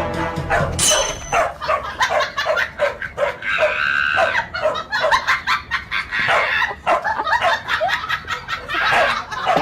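A dog barking and yapping rapidly, about three or four barks a second, with a couple of longer drawn-out calls in between.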